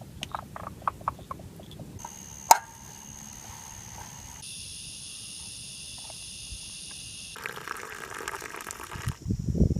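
Forest insects and frogs calling in abrupt, changing segments. Scattered clicking calls come first, then a steady high-pitched trill, then a dense high insect buzz. Low irregular thumps start near the end.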